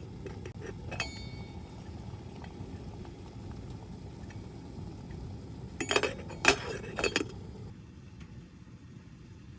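Dishes or utensils clinking: one light clink about a second in, then a quick run of sharper clinks about six to seven seconds in, over a steady low rumble.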